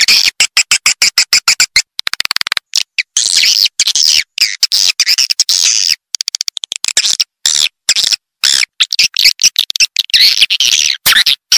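Recorded swiftlet calls: high-pitched chirping twitters and clicks in rapid, dense runs broken by short gaps, with longer unbroken twittering stretches about three seconds in and again near the end. This is a swiftlet lure call, played in swiftlet houses to draw edible-nest swiftlets in.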